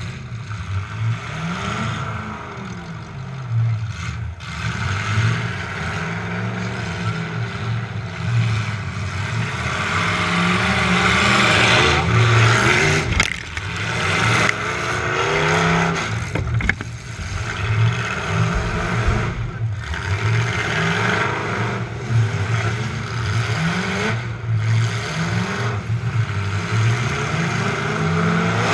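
Demolition derby truck's engine revving up and falling back over and over under hard driving, with a few sharp bangs of impacts and metal clatter.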